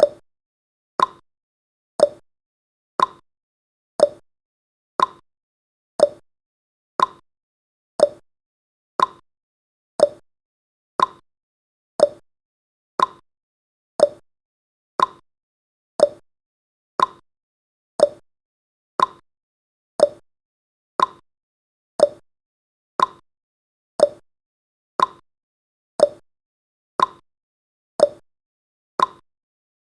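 Countdown timer's tick sound effect: one short, sharp tick every second, evenly spaced, marking each second counted down.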